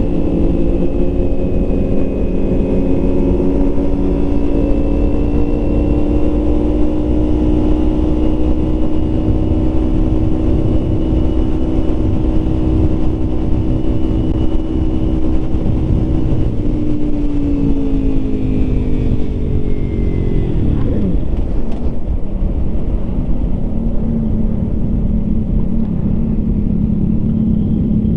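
Motorcycle engine running at a steady cruise under heavy wind rush on the rider's microphone. From about 17 seconds in its pitch falls over a few seconds as the bike slows, then settles at a lower steady note.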